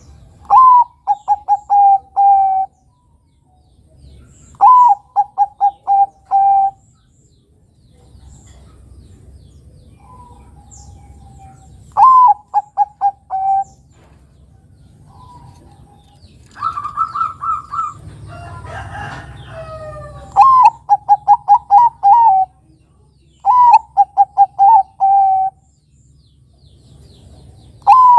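Zebra dove (Bangkok-bred perkutut) cooing: six repeated two-second phrases, each a rising opening note followed by a quick run of short coos. Around the middle comes one longer, higher held note and a brief jumble of other sound.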